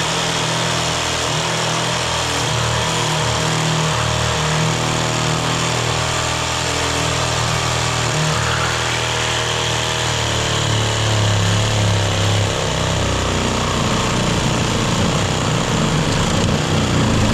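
A power tool running steadily and loudly under load, its pitch shifting a little as it works.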